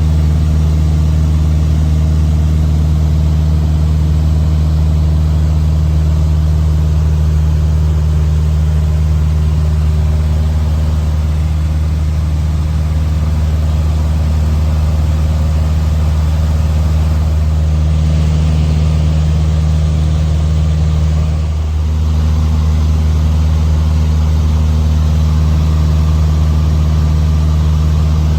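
1964 Cessna 150D's Continental O-200 four-cylinder engine and propeller running steadily with a loud drone. A rush of extra hiss joins for a few seconds past the middle, and the engine sound dips briefly as it ends.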